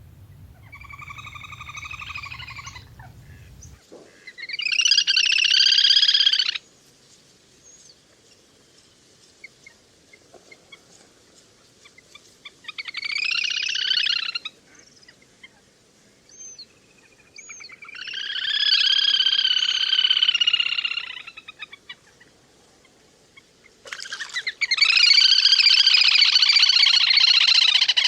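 Lesser whistling duck (le le) calls, a lure recording: five phrases of rapid, wavering whistled calls, each lasting a few seconds with pauses between, the last starting near the end. A low hum sits under the first few seconds.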